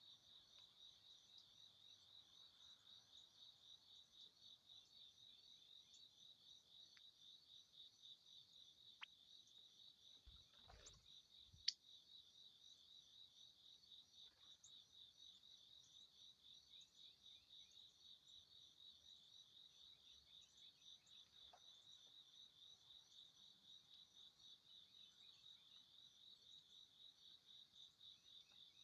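Faint, steady insect chirping, high-pitched and rhythmic at about four pulses a second, with a few brief clicks, the sharpest about twelve seconds in.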